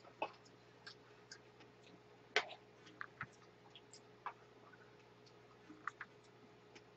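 Faint, irregular crunchy clicks of omandungi (warty sea squirt) being chewed close to the microphone, with one louder crunch about two and a half seconds in.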